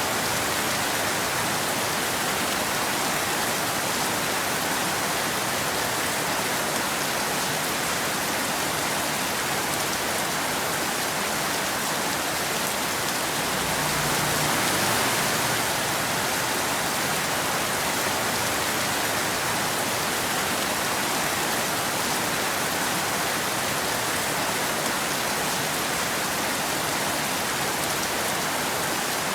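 Steady rain falling on a surface, an even hiss without thunder, swelling slightly about halfway through.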